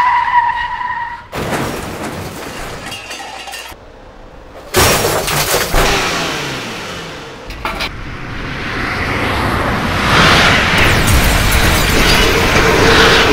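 Car-crash sound effects: breaking and shattering glass, in several pieces that start and stop abruptly, the last one building louder and denser.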